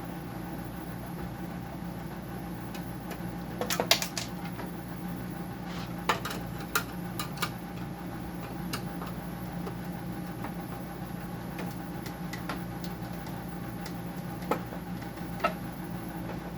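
Scattered clicks and knocks of a dehumidifier's plastic and metal parts being handled and pried with hand tools during disassembly, loudest as a short cluster about four seconds in. A steady low machine hum runs underneath.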